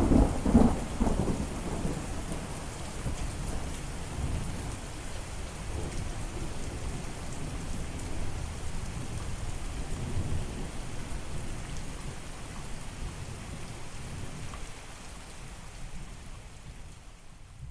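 Steady heavy rain with thunder. A loud rumble of thunder at the start dies away over a couple of seconds into the even hiss of rain, with fainter low rumbles further on.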